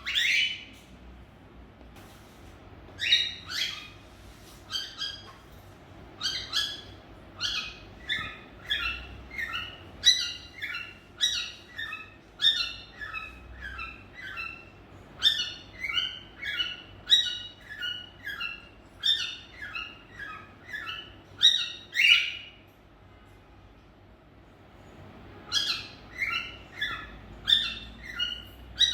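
Cockatiels chirping in a long string of short, repeated calls, about one to two a second. They break off for a few seconds near the end, then start again.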